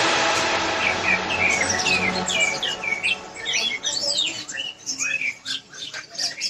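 Cucak hijau (greater green leafbird) singing a fast run of varied whistled and chattering notes, starting about a second in. The tail of electronic music fades out under the first few seconds.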